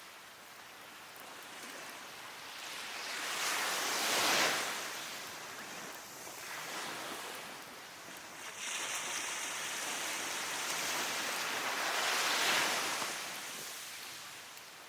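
Ocean surf breaking and washing up a beach: two slow swells of rushing noise, the loudest about four seconds in and again about twelve seconds in, each fading away after.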